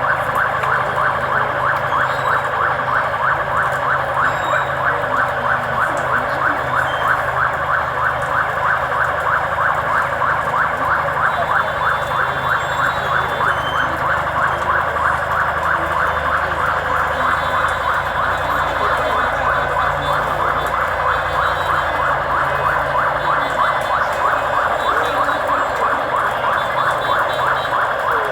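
Vehicle siren sounding continuously with a fast, steady warble, over the low running of a vehicle engine.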